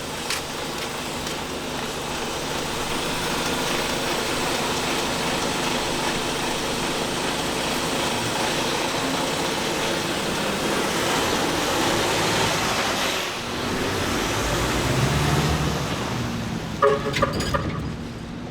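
A truck engine running steadily, with a stronger low rumble for a couple of seconds about three-quarters of the way through and a few sharp knocks near the end.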